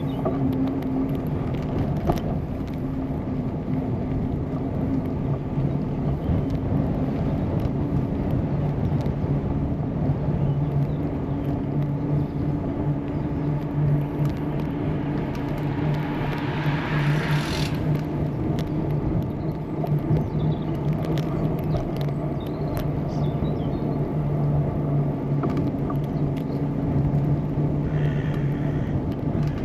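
Steady rumble of tyres and wind on a bicycle-mounted action camera while riding, with a steady low hum underneath. About two-thirds of the way through, a hiss swells for a couple of seconds and then cuts off sharply.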